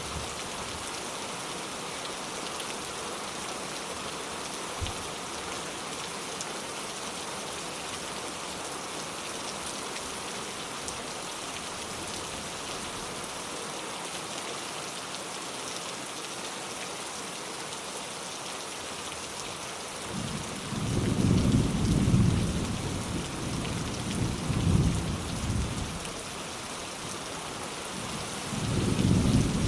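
Steady rain with thunder rumbling in twice: a long roll beginning about two-thirds of the way in, and a second one near the end.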